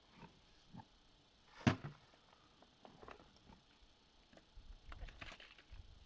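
Scattered light knocks and clicks, the loudest a single sharp knock nearly two seconds in, with a quick run of small clicks about five seconds in.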